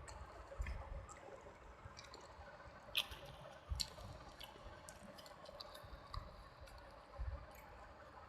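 Close-miked chewing of soft, wet food: moist mouth smacks and clicks at an irregular pace, a few sharper ones standing out.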